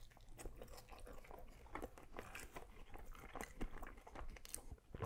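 A person biting and chewing a mouthful of falafel waffle topped with lamb: many small, irregular clicks of food and mouth noise, quiet throughout.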